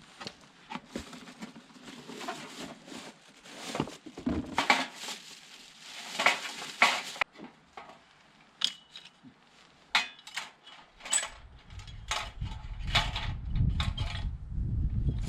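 Crunching footsteps and handling on riverbank gravel, mixed with scattered clinks of metal and dish-like camp gear. A low rumble comes in about eleven seconds in.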